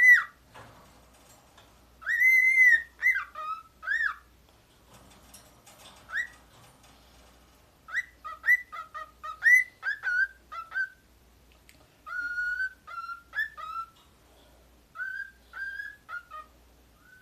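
Male cockatiel whistling: short clear notes that rise and fall, sung in several separate phrases with pauses between.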